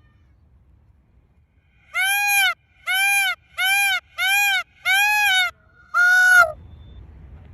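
Domestic goose honking: six loud nasal honks in a row about two seconds in, each rising and falling in pitch, the last held a little longer.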